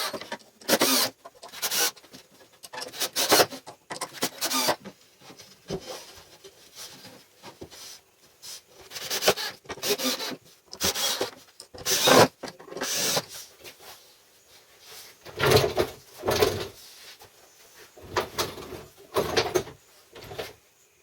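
Hand work in a workshop: irregular rubbing and scraping strokes, about one a second, with a few heavier, deeper strokes near the end.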